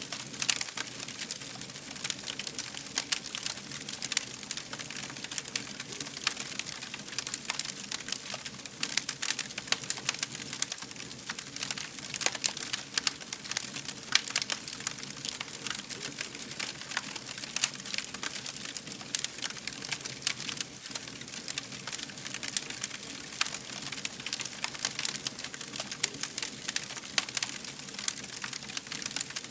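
Wood fire crackling: a dense, steady stream of small pops and snaps over a soft hiss.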